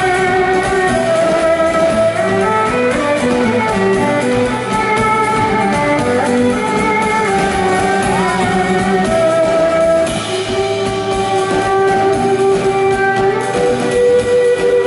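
Live band music: an instrumental passage without vocals, guitar with long held notes over the band.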